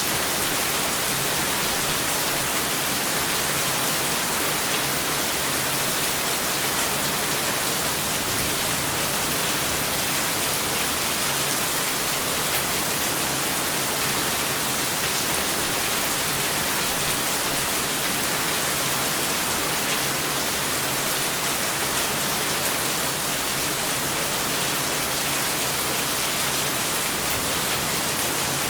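Steady rain falling, an even dense hiss with fine drop patter and no break or swell.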